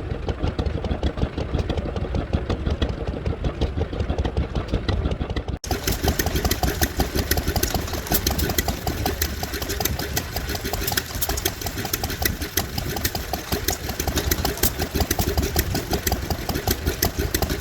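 Vintage stationary engines running with a steady, rapid beat. About five and a half seconds in, the sound breaks off for an instant and resumes brighter and busier.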